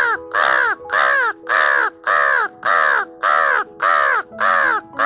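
A quick, regular series of crow caws, about two a second, each a harsh call that falls in pitch, over steady held notes.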